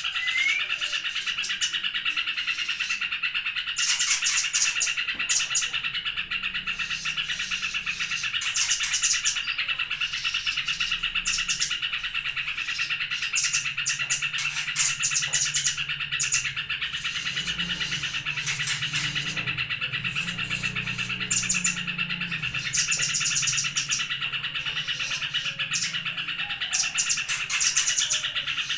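Small songbirds chirping and trilling, of the kind recorded as 'masteran' audio played to teach caged songbirds. A steady high trill runs throughout, and bursts of very high, fast chirps come every few seconds.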